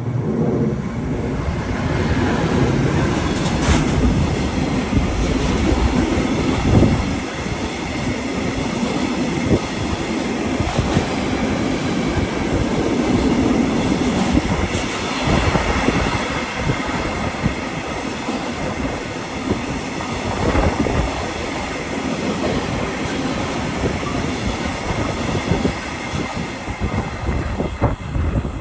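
A train passing close by, its wheels running over the rails with a steady, loud rumble and scattered sharp knocks for nearly half a minute, dropping away near the end.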